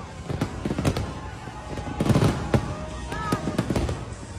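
New Year fireworks bursting overhead: a rapid run of bangs and crackles, with the heaviest cluster about two seconds in.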